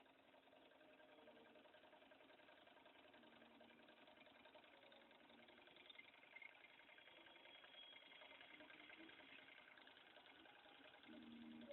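Model Stirling engine running: a faint, steady mechanical whirr made of rapid fine ticks, growing a little louder near the end.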